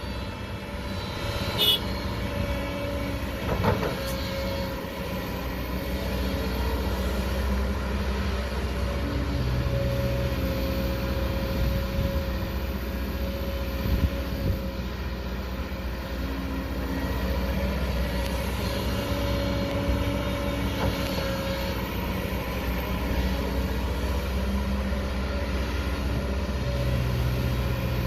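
An excavator's diesel engine runs steadily under load, with a hydraulic whine that comes and goes as the machine works. A few sharp knocks are heard, the loudest about 2, 4 and 14 seconds in.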